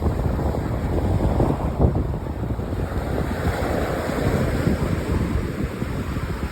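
Waves washing onto a sandy beach: the surf's rush is loudest at first and slowly fades as the wash runs out.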